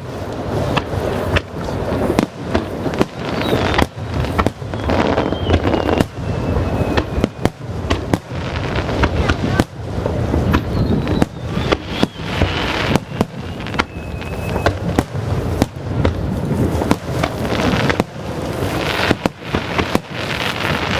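Aerial fireworks shells bursting in rapid, overlapping succession, several explosions a second over a continuous rumble. Now and then a thin whistle slides downward through it.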